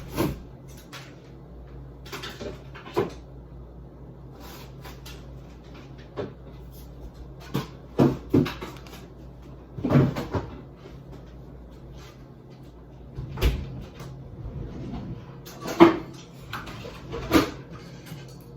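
Kitchen handling sounds: a string of irregular knocks and clunks of doors and containers being opened, shut and set down while cream cheese is fetched from the fridge, over a steady low hum.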